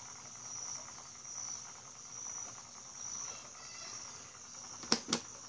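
A steady, faint, high-pitched chirring runs throughout. Two sharp clicks come near the end as the Electrolux Turbo Limpeza washer's program selector knob is turned to the next position, with no pump or valve starting: the machine gives no signal.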